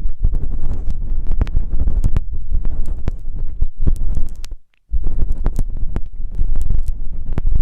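ASMR ear massage: something rubbing and scratching directly on an ear-shaped microphone, a deep muffled rumble full of crackles and clicks. It stops for a moment about four and a half seconds in, then starts again.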